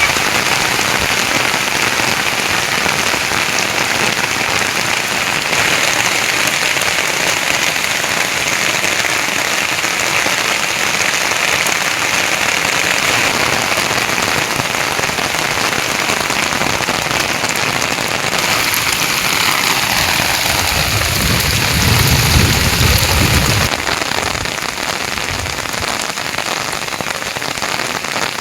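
Heavy rain falling steadily. About two-thirds of the way in, a low rumble swells and fades; it is the loudest moment.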